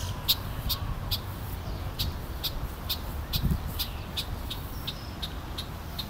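An agitated bird giving short, sharp scolding calls over and over, about two to three a second, with a low wind rumble on the microphone.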